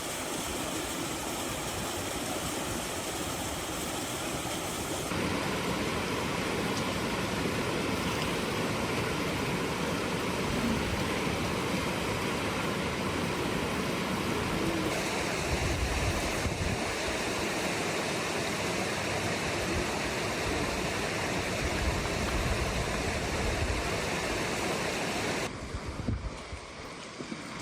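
Steady rushing water noise, its character changing abruptly a few times as if spliced, with a brief drop in level near the end.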